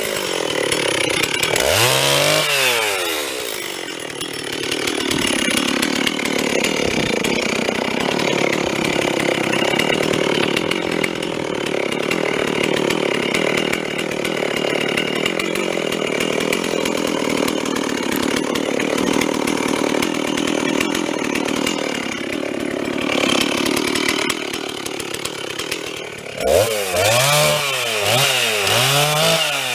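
Stihl chainsaw cutting through wood, its engine held steady under load for about twenty seconds. At the start and again near the end the throttle is blipped, the pitch rising and falling in quick revs.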